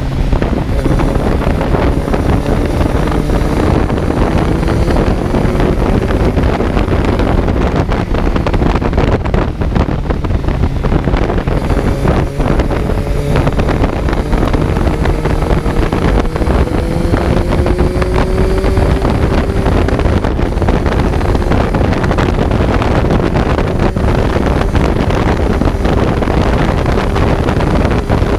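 Kawasaki Z900's inline-four engine pulling on the road, its pitch climbing slowly through two long stretches, with heavy wind rush on the onboard microphone.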